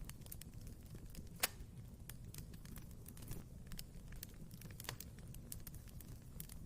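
Wood fire burning in a fireplace: a low steady rumble of flames with frequent irregular crackles and pops, one sharp pop about one and a half seconds in and another near five seconds.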